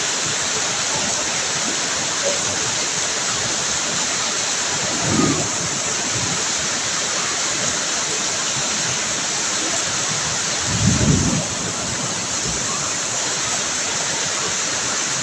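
Steady heavy rain falling, a constant even hiss. Two brief low thumps break through, about five seconds in and again about eleven seconds in.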